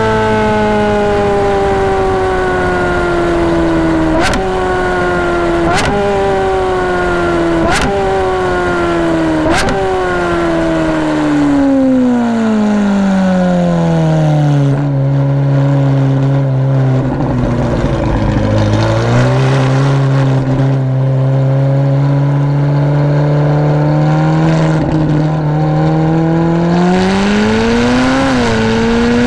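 Straight-piped Ferrari 458 Speciale V8, heard on board, slowing after a run. Its pitch falls steadily, with four sharp cracks about two seconds apart, each a downshift with a quick rev blip. It then settles to a low, steady drone at low speed, with a short rise in revs near the end.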